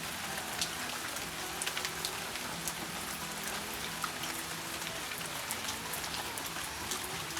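Hard rain falling, a steady hiss dotted with sharp ticks of individual drops.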